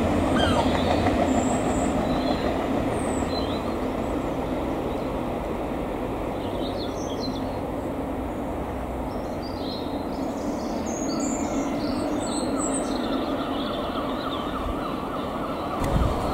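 A GWR Class 802 bi-mode train approaching on its underfloor diesel engines: a steady rumble of engines and wheels on rail. Faint bird chirps sound over it.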